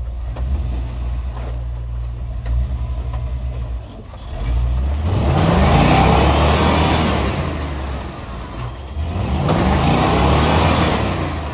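Off-road vehicle's engine running low, then revved hard twice with rising pitch, about four seconds in and again near the end, as it tries to climb a rock ledge.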